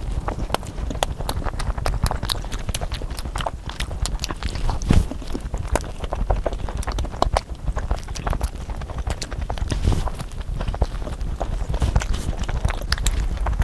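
Close-miked eating: chewing and mouth sounds, with many quick clicks in irregular succession.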